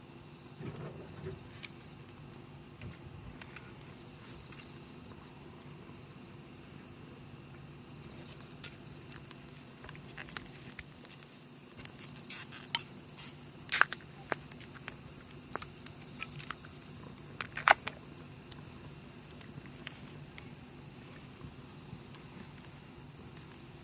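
Wood campfire crackling with scattered small snaps and two sharp pops, over a steady high chirring of crickets.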